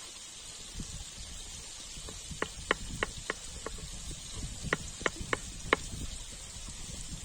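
A knife chopping on a cutting board: two quick runs of sharp taps, about three a second, over a steady high hiss.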